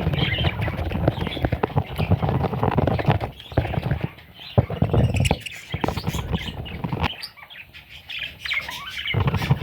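Parrot chicks cheeping in quick high chirps over loud close-up scuffling and clicks, which ease off for a couple of seconds near the end.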